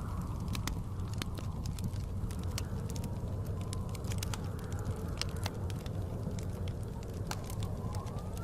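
Wood fire crackling with frequent sharp pops, over the steady low rumble of blizzard wind. Faint rising and falling whistles of the wind come and go.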